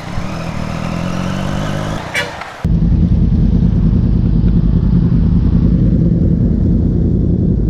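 Triumph Daytona 675R's three-cylinder engine running, then a sudden change about two and a half seconds in to a loud, steady low rumble of wind on the microphone over the engine as the bike rides on.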